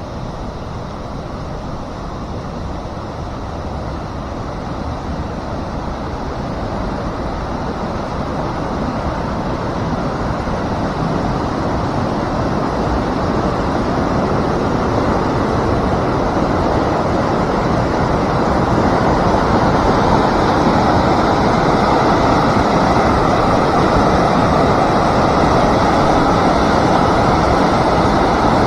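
Rushing water, a steady rush that grows gradually louder.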